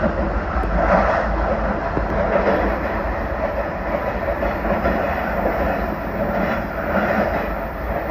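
JR Central 383 series electric train of the Limited Express Shinano running at speed: a steady rumble of wheels on rail, with swells of clatter every second or two.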